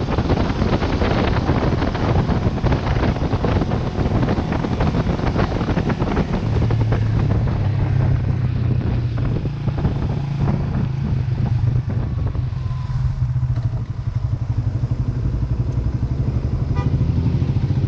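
Vento Lucky 7 motorcycle engine running under a steady wind and road rush while riding. About six seconds in the rush dies down and the engine settles into a steady low hum, as if slowing to a stop and idling.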